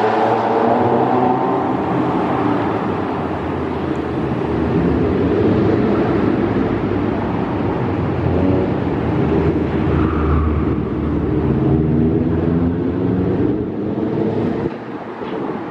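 Car engine running, its revs rising about eight seconds in, then the sound dropping away near the end.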